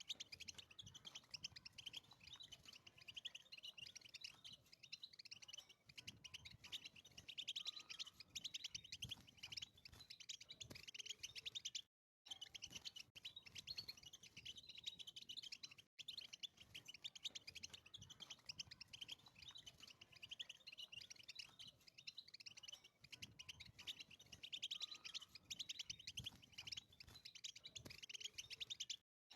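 European goldfinch singing a long, quiet run of rapid twittering trills and chirps that breaks off briefly about twelve seconds in.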